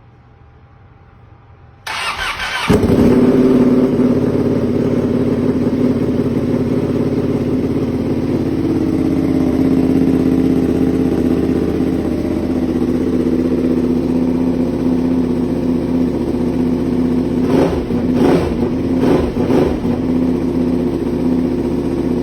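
Ducati motorcycle cranked by its electric starter, catching about three seconds in, then idling steadily through its exhaust muffler. A few quick throttle blips come near the end.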